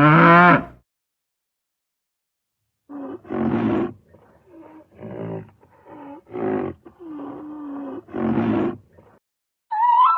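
Tiger roaring: a series of about seven deep roars and moaning calls starting about three seconds in, with a short silent gap before them. A loud animal call breaks off in the first second.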